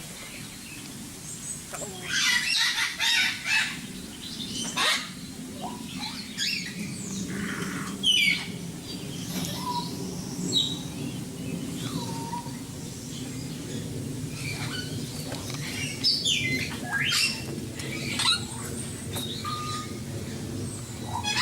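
Captive birds chirping and calling in short, scattered notes with a few brief whistles, and a flurry of wing flapping about two to four seconds in, over a steady low hum.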